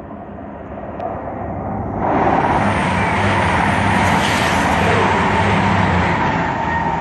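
East Midlands Trains diesel express passing through the station at speed on the near line. Its rumble and wheel-on-rail rush swell suddenly about two seconds in and stay loud.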